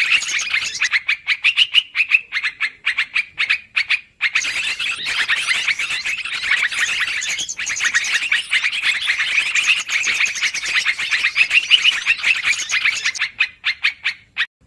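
Yellow-vented bulbuls (trucukan) calling in a busy, rapid chatter of bubbly notes, as on a bird-lure recording. The calling breaks off briefly about four seconds in and again near eight seconds, and thins out near the end.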